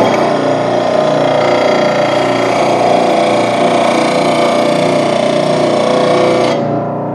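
VEVOR JLD10-8 electric lawn mower blade sharpener grinding a mower blade: a steady, loud grinding hiss over the motor's hum. About six and a half seconds in the grinding stops and the motor keeps running more quietly.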